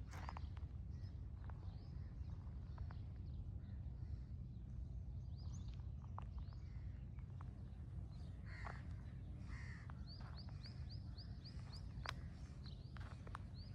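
Crows cawing with harsh calls, mixed with a quick run of short, high chirps from another bird in the second half. A steady low rumble runs underneath.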